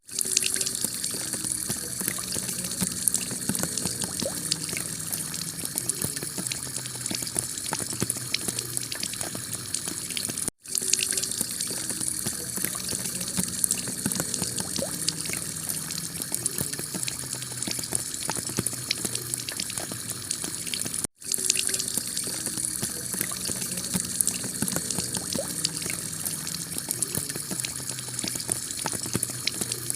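Heavy rain on a tiled roof: a steady, dense hiss of water studded with the sharp clicks of individual drops. The sound cuts out for a split second twice, about ten seconds apart, where the recording loops.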